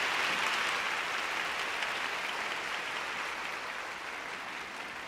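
Arena audience applauding, the clapping slowly dying down.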